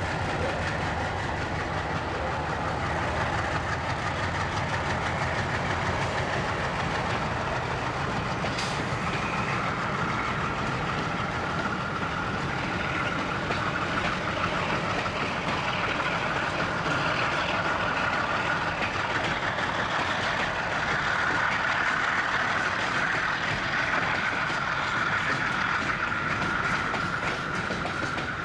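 Freight train rolling by, its wheels clattering over the rail joints in a steady rumble. A steady high-pitched whine comes in about a third of the way through and holds to the end.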